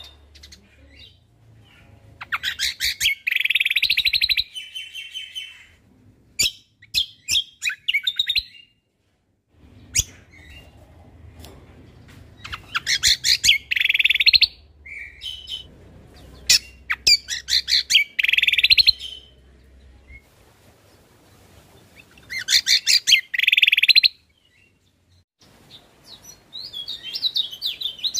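Cucak kombo (kecial kombok) songbird singing in short bursts of rapid, stuttering chirps and trills, one phrase every four to five seconds with brief pauses between. A faint low hum sits under some of the phrases.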